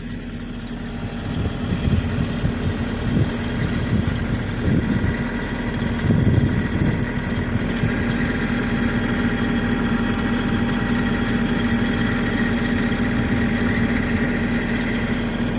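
Toyota Camroad engine idling with an abnormal noise from its alternator, whose one-way clutch pulley has failed. An irregular low rattle over the first several seconds settles into a steadier hum with a faint whine.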